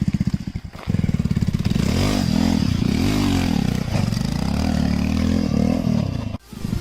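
Bajaj Pulsar motorcycle's single-cylinder engine running with even firing pulses. It cuts out abruptly just under a second in, then revs up and down several times as the three-wheeled bike is ridden, dropping out briefly near the end.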